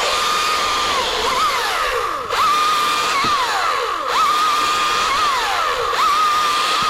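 Two-stroke chainsaw running at high revs while cutting wood, throwing chips. Its engine pitch drops away and climbs back several times.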